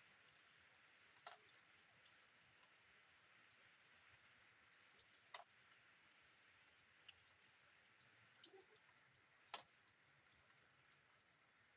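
Faint rain: a soft, even hiss of rainfall with occasional sharp drips ticking at irregular intervals.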